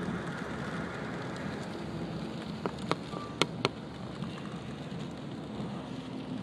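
Rain on a moving car, heard from inside the cabin: a steady hiss of rain and road noise, with a few sharp ticks about three seconds in.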